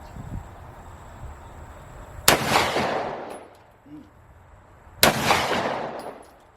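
Two slugs fired from an AK-style magazine-fed shotgun, about two and a half seconds apart, each blast followed by an echo that dies away over about a second.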